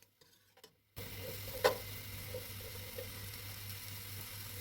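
Fava beans and chopped garlic sizzling in oil in a pot over medium heat. The sizzle starts about a second in, with a single sharp click shortly after.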